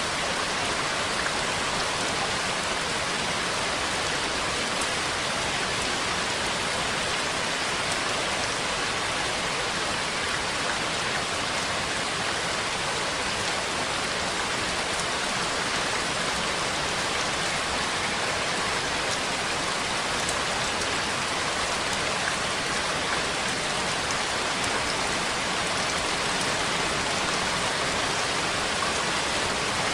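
Steady rain falling, an even hiss that holds at one level without pauses or thunder.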